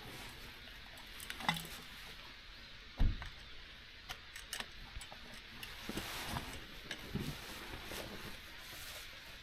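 A few scattered knocks and clicks over a faint steady background, the loudest a dull thump about three seconds in.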